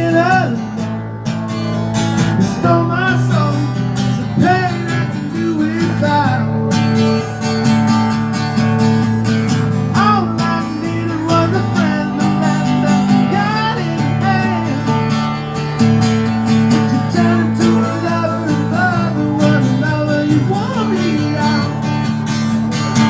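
An acoustic guitar strummed with a voice singing over it.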